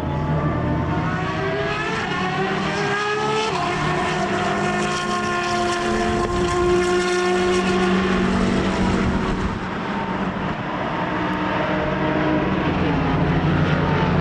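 A racing car's engine accelerating at full throttle, its pitch climbing steadily with a gear change about three and a half seconds in. It fades about ten seconds in, and another car's engine rises near the end.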